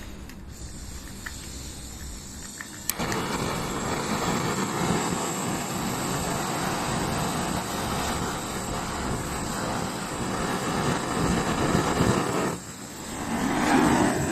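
Vehicle running, a steady rushing noise that jumps suddenly louder about three seconds in, dips briefly near the end and then swells again.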